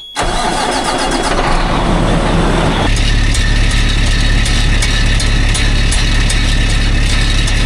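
Peterbilt semi truck's diesel engine starting: about three seconds of cranking and catching, then it settles into a steady idle.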